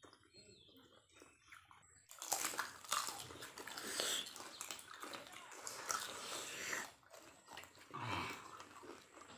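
Several people eating close to the microphone: wet chewing, biting and sucking on boiled crayfish and other food picked up by hand. It starts about two seconds in and runs as a dense stream of small clicks and smacks.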